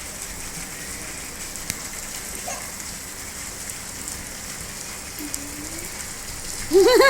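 Steady rain falling, an even hiss of drops. A few faint voice sounds come in, and near the end a child's short, loud, high call rises over it.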